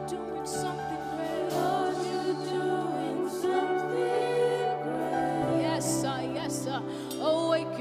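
Live worship music: held chords with a voice singing over them, the chord shifting about two-thirds of the way through.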